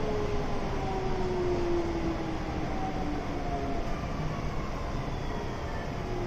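Kintetsu 7000 series train's early Hitachi GTO-VVVF inverter and traction motors whining, with several tones falling slowly in pitch as the train slows, over a steady rumble from the running gear.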